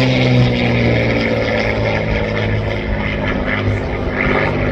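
Propeller aircraft engine droning overhead as it flies past, its pitch dropping at the start and then holding steady.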